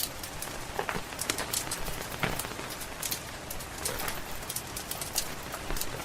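Steady rain with a wood fire crackling in sharp pops, and a few short, lower sounds about one, two and four seconds in.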